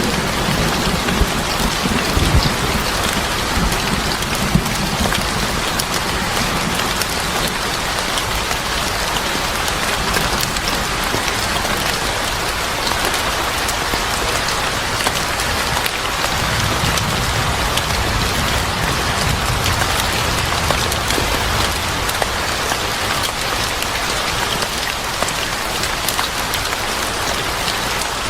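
Steady heavy rain falling on surfaces, a dense even hiss of drops. Low rumbles, like distant thunder, swell near the start and again a little past halfway.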